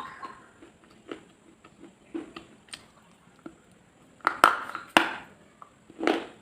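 Close-miked crunching and clicking: scattered small crisp crunches and taps, with two louder crunches about four and a half and five seconds in and another near the end.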